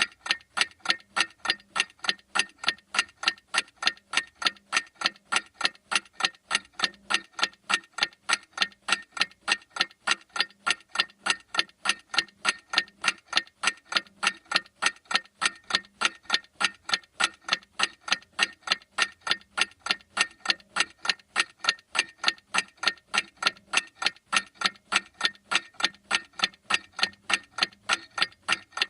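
Clock ticking: sharp, even ticks at a steady, rapid pace without a break.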